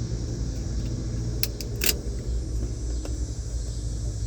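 A few small plastic clicks and rattles from a car's dome light case being handled, about a second and a half to two seconds in and again near three seconds, over a steady low hum.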